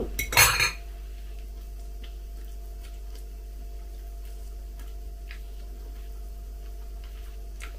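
A person quietly chewing a mouthful of beef, with faint scattered clicks, over a steady low hum. A short, loud noise sounds about half a second in.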